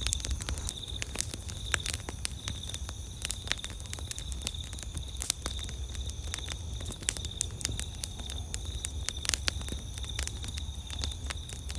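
Campfire crackling, with many sharp irregular pops. A steady high trill of night insects runs behind it.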